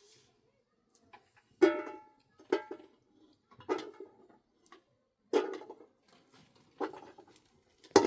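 Five single plucked or strummed string notes, spaced irregularly a second or more apart, each ringing briefly and dying away.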